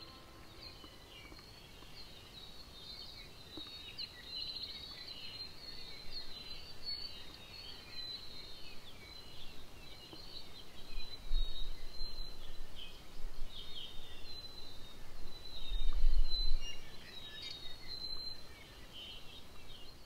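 Forest birds chirping and trilling, many short overlapping calls throughout. Two brief low rumbles, about halfway through and again a few seconds later, are the loudest sounds.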